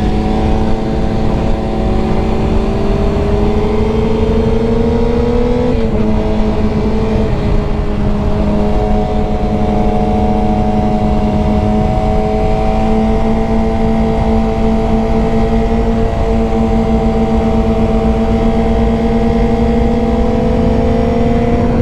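Sportbike engine running at steady high revs under load, its pitch creeping slowly upward. The pitch drops about six seconds in, as on an upshift, then climbs slowly again, over a steady rush of wind noise.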